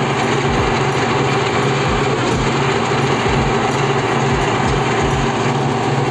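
Heavy truck engine running steadily, with irregular low thumps underneath.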